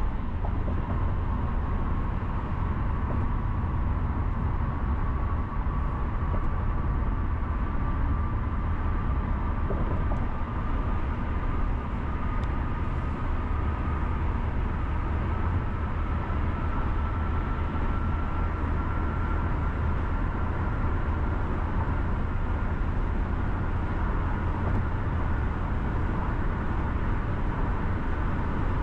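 Car driving along a road: steady low rumble and tyre noise, with a faint whine that rises slowly in pitch.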